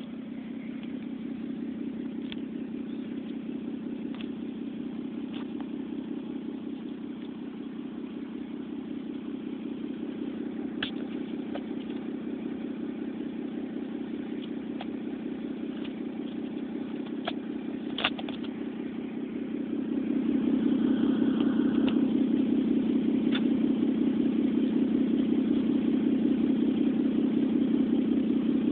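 2006 Dodge Stratus SXT's 2.7-litre V6 idling through a custom 2.5-inch cat-deleted exhaust with a 3-inch resonator and custom muffler: a steady, low exhaust drone. It gets louder about two-thirds of the way through without changing pitch, with a few faint clicks here and there.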